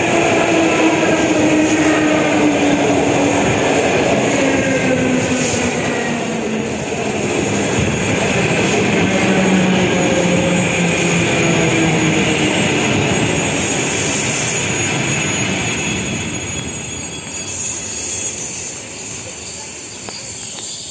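Passenger train passing close by at speed: steady rush and rumble of the coaches' wheels on the rails, with a few whining tones that slowly fall in pitch. It fades over the last few seconds as the last coach goes by.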